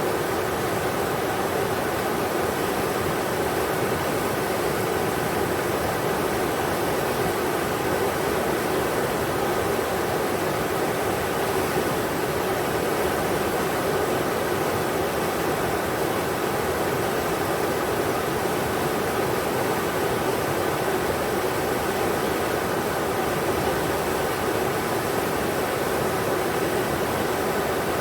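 River water rushing over rocks, a steady, unbroken wash of noise.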